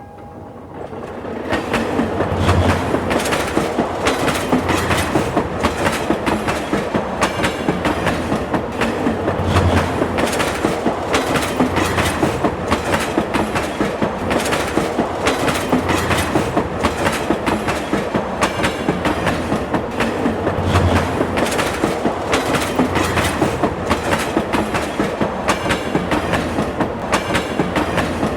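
A train running on rails, its wheels clacking over the rail joints in a quick, steady rhythm, with a deeper thud now and then. It builds up over the first two seconds, then holds steady.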